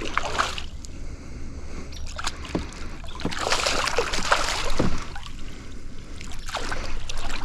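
Water splashing and sloshing beside a kayak as a hooked smallmouth bass is brought to the boat, with heavier splashing from about three to five seconds in, over a steady low rumble.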